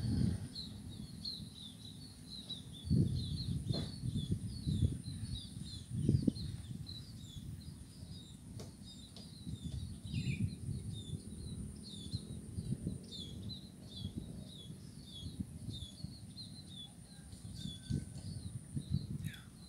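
Small birds chirping over and over, short high calls about three a second, over a steady high-pitched whine. Irregular low rumbling noise underneath swells louder a few times and is the loudest sound.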